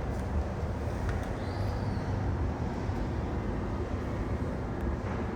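Steady low rumble of aircraft engines.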